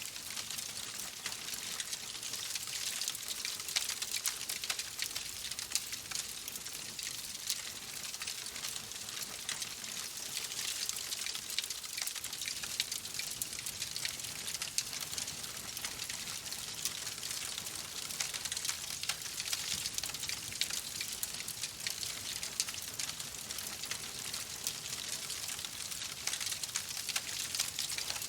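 Wood fire crackling steadily, with dense small pops and snaps over a soft hiss.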